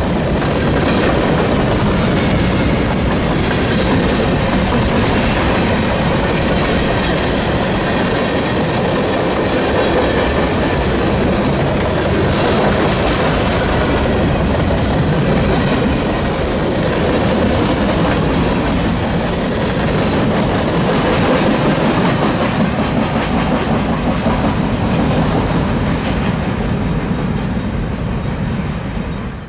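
Freight train rolling past, a steady loud rumble with the clickety-clack of wheels over the rails, fading out sharply at the very end.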